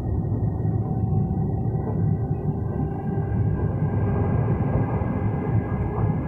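Steady rumble of a moving passenger train heard from inside the carriage: wheels running on the rails, with a thin steady whine above the rumble.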